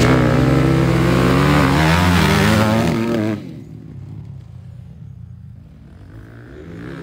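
Supermoto motorcycle engines running and revving with repeated rises and falls in pitch, then dropping off sharply about three seconds in to a fainter engine sound.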